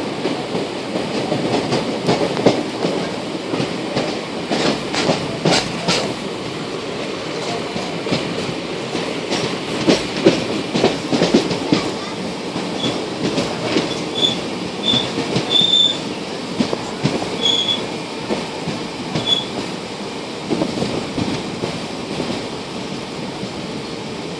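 Neelanchal Express passenger train running along the track, heard from on board: a steady rumble of the coaches with repeated clicks and knocks from the wheels over the rails. A few brief high-pitched squeaks come about midway.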